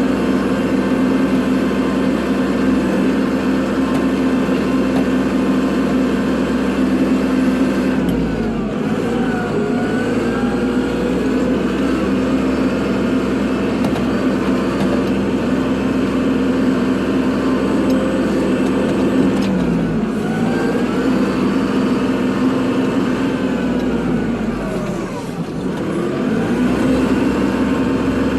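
Kubota tractor's diesel engine running steadily. Its pitch drops and climbs back three times: about eight seconds in, about twenty seconds in, and most deeply near the end.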